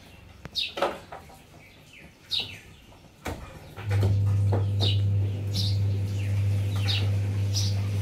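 A bird calls over and over with short chirps that fall in pitch, about one a second. A few knocks sound early on. About four seconds in, a loud steady low hum starts and becomes the loudest sound.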